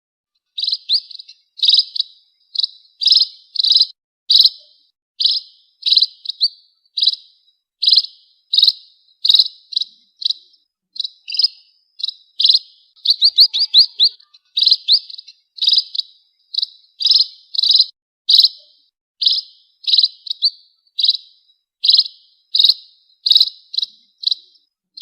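Pipit (emprit) birds giving short, sharp chirps, about one or two a second, with a quick rapid run of chirps about halfway through; a call recording of the kind played to lure these birds.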